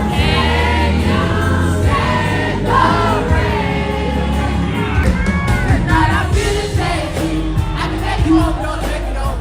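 Live concert music: a woman singing an R&B ballad with bending, held notes over the band's steady bass, with the crowd faintly audible underneath.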